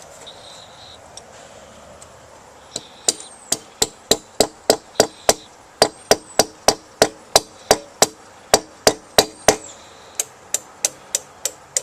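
A hammer striking metal repeatedly, about three blows a second, in a long steady run; after a brief pause the blows resume somewhat lighter.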